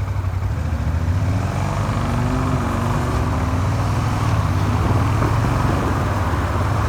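Suzuki SV400's V-twin engine running steadily as the motorcycle is ridden, with wind and road rush. About two seconds in its pitch rises as it picks up revs.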